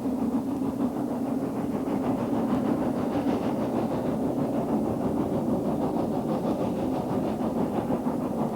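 Snowdon Mountain Railway train climbing the mountain rack line, its engine running with a steady, unbroken drone.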